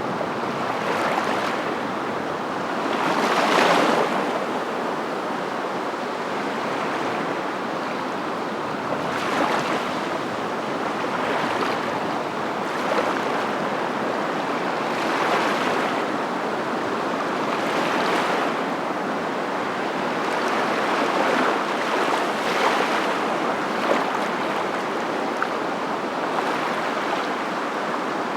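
A steady rush of water, like surf, that swells and fades every few seconds.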